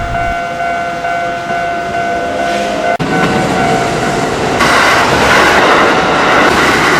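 Kintetsu electric train passing over a level crossing, wheels clattering on the rails and the noise swelling loudest about two-thirds of the way through, with steady high tones held over it.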